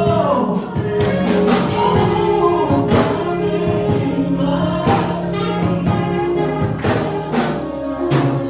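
Gospel choir singing with instrumental accompaniment and a steady beat of about two strokes a second.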